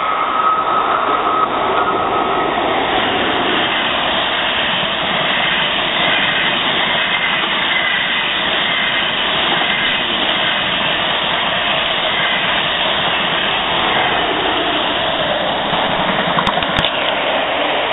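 A long white-and-red DB passenger train passing close by: a loud, steady noise of wheels on rails and rushing air that swells at the start and holds throughout, with a faint high tone over the first couple of seconds and one sharp click near the end.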